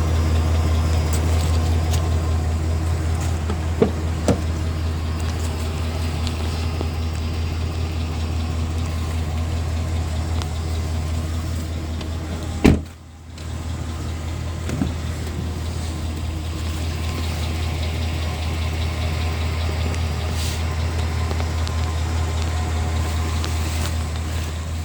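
Pickup truck engine idling steadily, a low even hum. About halfway through there is one sharp knock, and the level drops briefly just after it.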